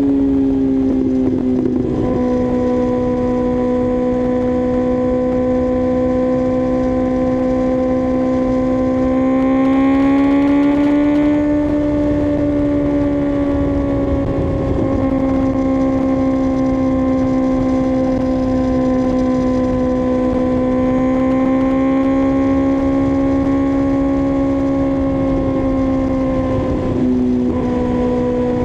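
2024 Kawasaki ZX-6R's inline-four engine running at steady cruising revs. The pitch rises a little about a third of the way in, settles back, and drops briefly near the end.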